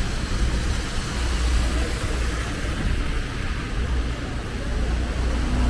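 Steady outdoor street noise: a deep low rumble under an even hiss, typical of passing road traffic.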